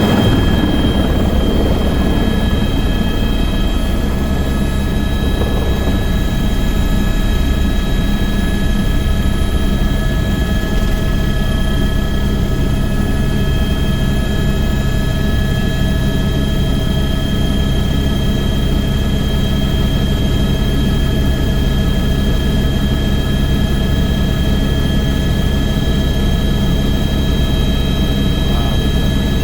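Helicopter running steadily: a constant low rotor and engine rumble with a steady high turbine whine over it.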